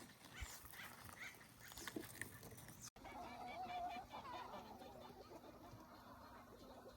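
Faint poultry calls, short gliding squawks and clucks with one longer held call after a brief gap about three seconds in.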